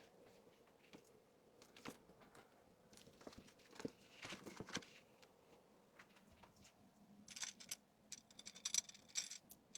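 Faint handling of packed items: scattered light taps and knocks, with a spell of plastic packaging crinkling near the end.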